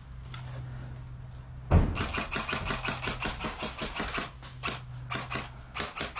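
Airsoft gun firing on full auto: a loud thump about two seconds in, then rapid bursts of sharp shots at about ten a second, with short breaks between bursts.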